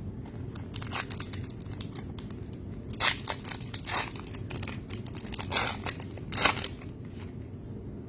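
Plastic wrapper of a trading-card pack crinkling and tearing in several short bursts, over a steady low background hum.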